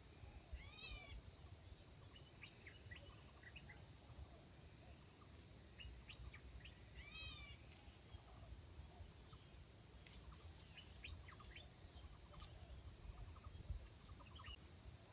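Faint bird calls: two short high calls, about a second in and about seven seconds in, with scattered short chirps between them and more of them near the end.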